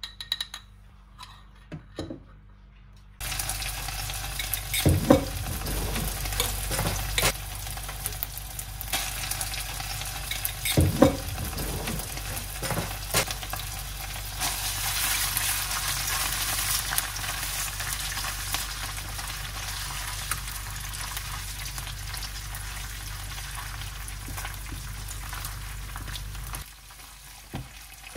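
Ginger-garlic paste sizzling as it fries in hot oil and ghee in a pan, stirred with a spatula, with a few knocks against the pan. It starts abruptly about three seconds in, after a few light clinks of a spoon against the ghee jar, and drops away near the end.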